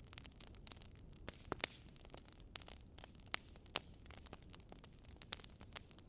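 Burning firewood crackling: irregular sharp pops and snaps over a faint steady hiss, the loudest pops about three seconds in and again near the end.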